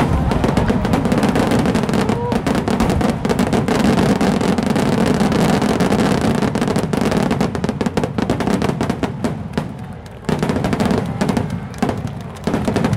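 A dense barrage of aerial fireworks shells bursting in rapid succession, their booms and crackles running together. The barrage thins out about ten seconds in, with a few last bursts near the end.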